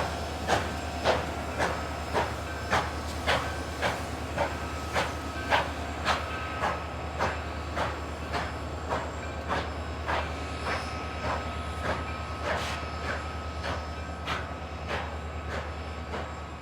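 Train moving slowly, with a regular beat about twice a second that grows fainter toward the end, over a steady low rumble.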